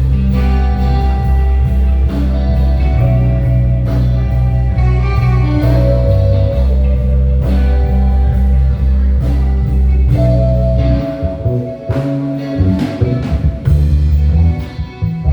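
Live band playing a soul groove: electric bass, drums, keyboards and guitar. The bass drops out briefly about eleven seconds in, then comes back.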